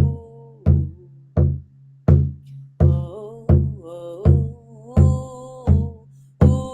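A drum beaten in a steady rhythm, about one and a half strikes a second, over a low steady drone, with wordless singing gliding in pitch between the beats.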